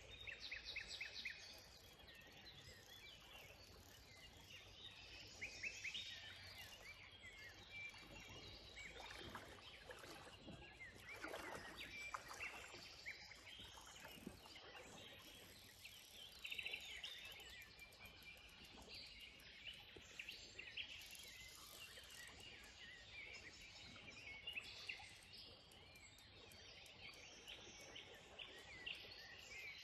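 Faint songbirds chirping and trilling again and again over a low, steady background hiss.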